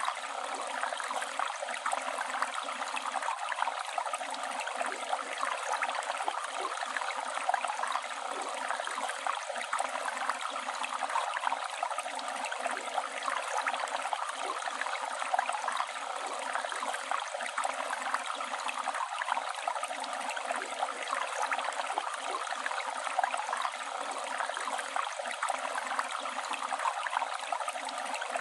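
A river flowing steadily, a continuous rushing of water with small splashes and gurgles.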